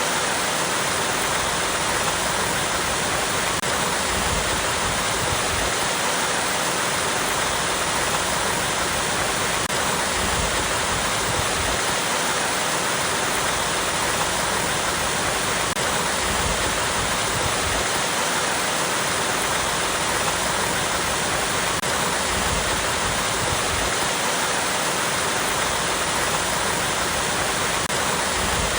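Small waterfall cascading over rocks, a steady, even rush of falling water.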